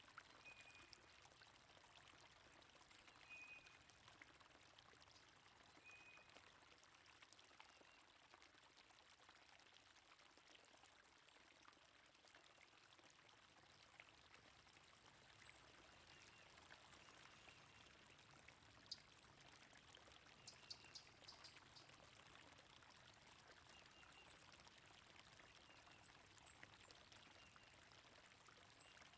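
Faint, steady flowing water, with brief high bird chirps now and then.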